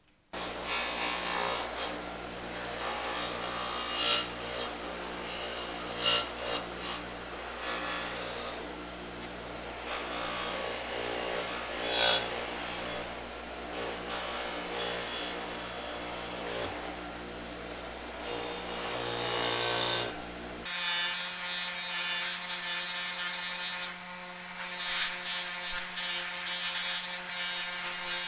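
Bench buffer running with a 6-inch Scotch-Brite wheel, scrubbing against an aluminum Honda C70 engine case in a steady abrasive rasp. A few harder scrapes stand out where the case is pressed in. About 21 seconds in, the steady hum beneath it changes.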